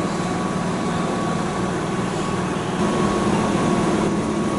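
Keihan electric trains at a station platform: a steady hum with a thin, even whine, growing louder about three seconds in as a renewed 6000-series train pulls in.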